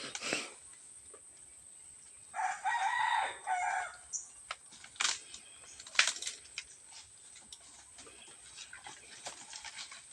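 A rooster crowing once, a crow of about a second and a half starting about two seconds in. A few sharp knocks come later, the loudest about six seconds in.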